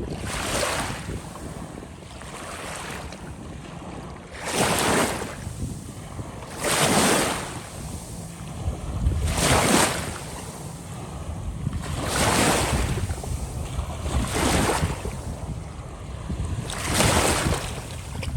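Small sea waves washing in, a hissing surge about every two to three seconds, over the low rumble of wind on the microphone.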